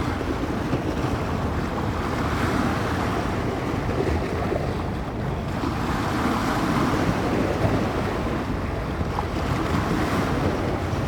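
Wind-driven bay waves breaking and washing on the shore in steady wind, with wind buffeting the microphone. The wash swells and eases every few seconds.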